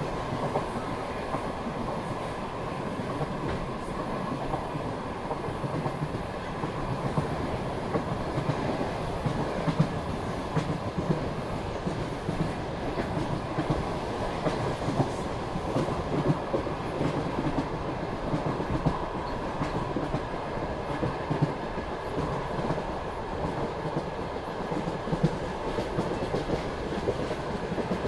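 Passenger carriage of a moving express train: a steady running rumble with the wheels clicking irregularly over rail joints.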